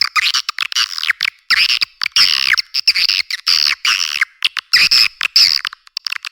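Swiftlets chattering and twittering, a recorded swiftlet call track of the kind played to lure the birds to nest. Dense high-pitched chirps come in bursts of about a second with short breaks between, and the sound is thin, with no low end.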